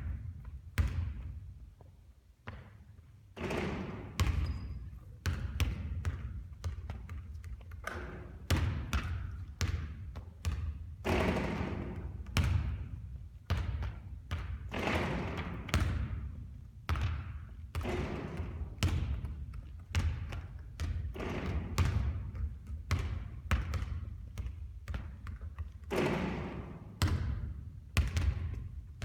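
Basketball bouncing again and again on a court during repeated three-point shooting, sharp thuds about once or twice a second, each with a short ringing tail.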